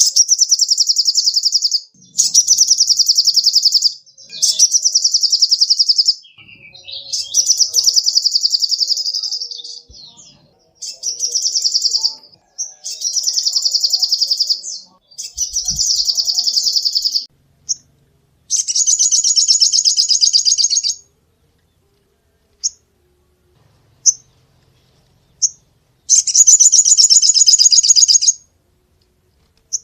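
Small songbird giving a rapid, high-pitched rattling trill over and over in bursts of one to three seconds, broken by short gaps. Near the end there is a longer pause with a few single short chirps, then one more burst.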